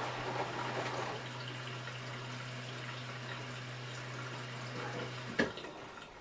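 Hotpoint washing machine mid-wash: water sloshing in the turning drum over a steady low motor hum. The hum stops with a single knock about five seconds in.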